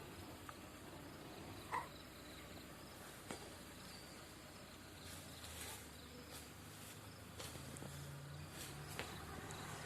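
Insects chirping in the forest, faint and steady, with a few brief sharp clicks, the loudest about two seconds in, and a faint low hum underneath.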